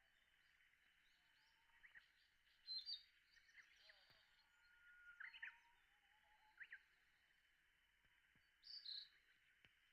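Faint birdsong: scattered short calls and chirps, one a held whistle that breaks into a quick flourish about five seconds in, over a steady high background hum.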